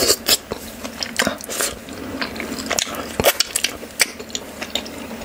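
Close-miked wet chewing and lip smacks of a person eating soft dough and stew by hand, with sharp mouth clicks at irregular moments and wet smacks as she licks her fingers.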